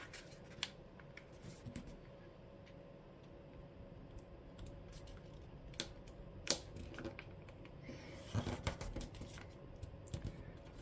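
A sheet of paper being folded and creased by hand: faint rustles and scattered sharp scrapes and clicks as the fold is lined up and pressed flat, busier near the end.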